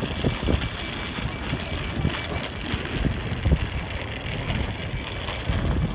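Hitachi Class 800-family intercity train approaching slowly, a low steady rumble with a faint constant high whine.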